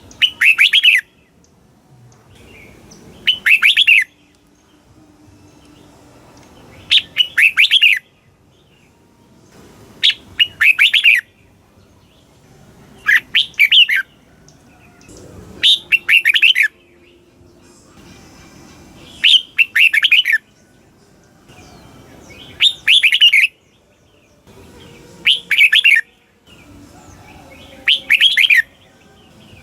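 Red-whiskered bulbul singing: short, bright, warbling phrases of under a second each, repeated about every three seconds, ten in all.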